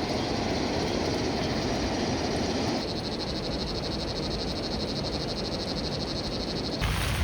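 Frogs calling in a fast, even pulsing chorus over a steady background hiss. The chorus starts about three seconds in and cuts off abruptly near the end.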